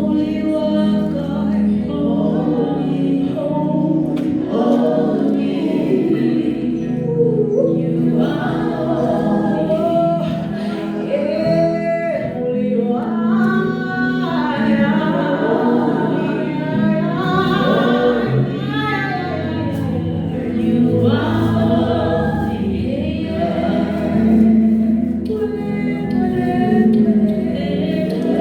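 Gospel choir singing worship music over steady low accompaniment, without a break.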